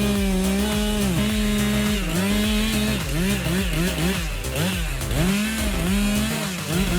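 Chainsaw running at full throttle while cutting wood. Its pitch dips again and again as the chain bites into the cut and then recovers, with several quick dips in a row in the second half.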